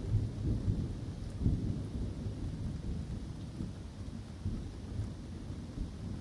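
Rolling thunder: a deep, uneven rumble that slowly dies away, with light rain falling in the woods.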